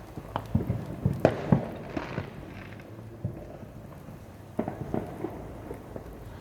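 Fireworks going off: a quick run of sharp bangs and pops over the first two and a half seconds, then a few more about three seconds later.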